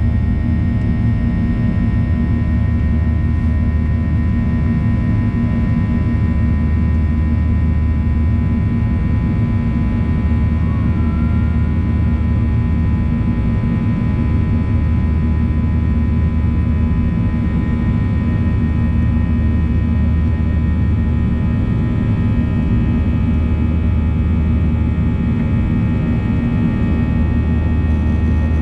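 Boeing 737-800 with CFM56 turbofans heard from the cabin during the climb after takeoff: a loud, steady engine roar with a deep rumble and several steady whining tones on top.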